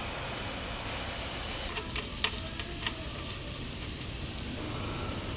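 A steady hiss that cuts off suddenly a little under two seconds in, followed by four or five sharp clicks.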